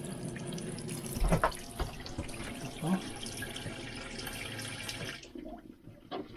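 Water running from a tap into a sink, with a few knocks and clatters; the flow stops suddenly about five seconds in.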